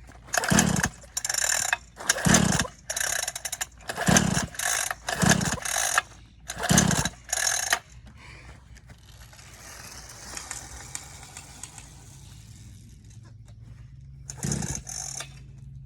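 Repeated attempts to start a dirt bike: about a dozen short bursts, mostly in pairs, as the engine turns over without catching, a typical sign of an overheated engine to the rider. A steady softer hiss fills the middle before one more pair of bursts near the end.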